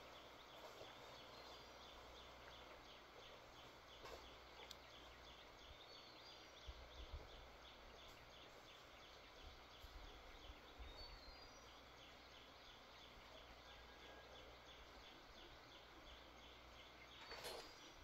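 Near silence: faint outdoor ambience with a steady, regular high-pitched ticking repeating a few times a second, and a brief rustle near the end.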